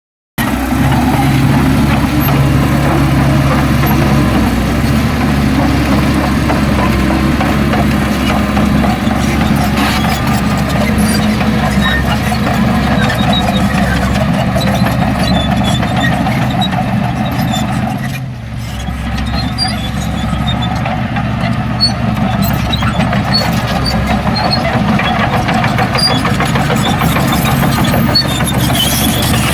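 Heavy diesel engine of earth-moving machinery running steadily, with a brief dip in level about two-thirds of the way through.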